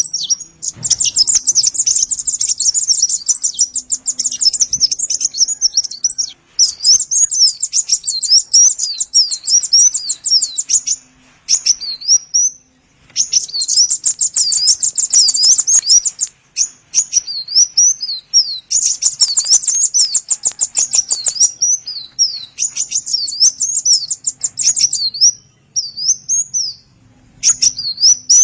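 Song of a konin, an Indonesian songbird, used as a lure call to get other birds singing: bouts of rapid, high-pitched chirping trills a few seconds long, broken by short pauses.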